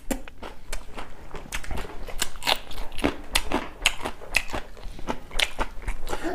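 Close-up crunching and chewing of a mouthful of singju, a raw vegetable and herb salad, in irregular crisp crunches about two to three a second.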